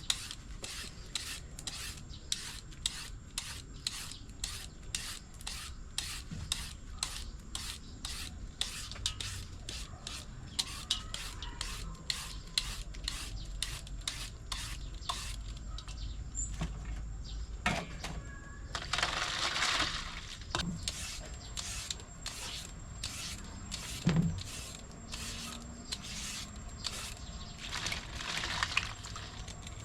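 Green papaya being shredded, a rasping scrape repeated in quick, even strokes roughly two a second, with a couple of longer scrapes in the second half.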